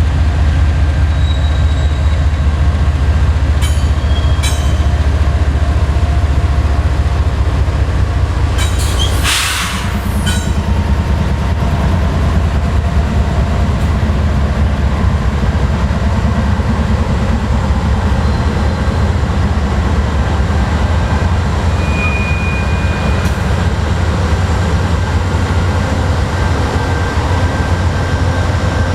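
Train rolling past on the rails with a steady heavy rumble. There is a short loud rush of noise about nine seconds in, and a brief high wheel squeal a little over twenty seconds in.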